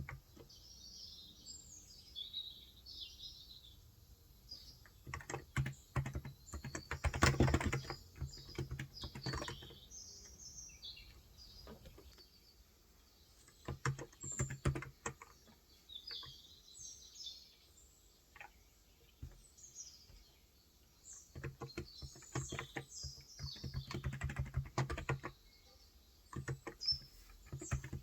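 Typing in bursts with pauses between them on a Cox Endeavor electrostatic capacitive keyboard with 35 g contactless switches. Small birds chirp in the background throughout.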